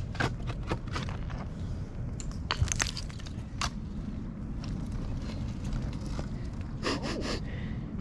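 Scattered crunches and clicks of dirt and broken glass being dug through or stepped on in a bottle dump, over a steady low rumble.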